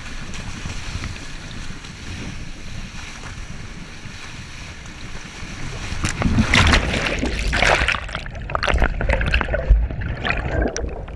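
Yamaha WaveRunner XL 1200 jet ski running, a steady low rumble under wind noise on the microphone. About six seconds in, loud irregular splashing and sloshing of water takes over.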